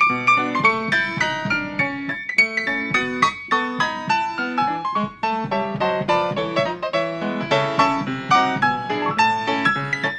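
Background piano music: a solo piano playing a quick, steady run of notes.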